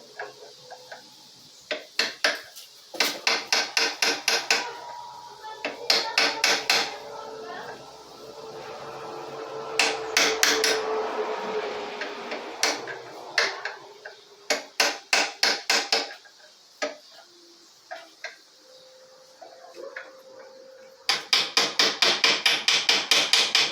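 Hammer tapping on metal in quick runs of sharp strikes, about five a second, broken by pauses; the longest run comes near the end.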